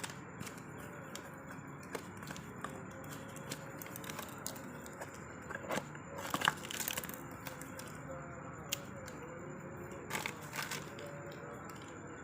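Parcel packaging being handled and opened: scattered crackles and crinkles, with a few louder rustles about six seconds in and again near ten seconds.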